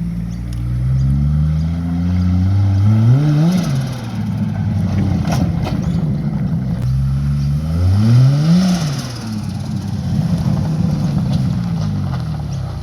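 Nissan R31 Skyline's turbocharged RB30ET straight-six revving out under acceleration twice, the note climbing for a few seconds each time and then dropping abruptly from the top.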